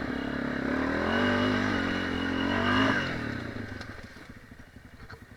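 Dirt bike engine revving hard under load, rising in pitch and then dropping away and fading out about three to four seconds in, as the bike fails to go.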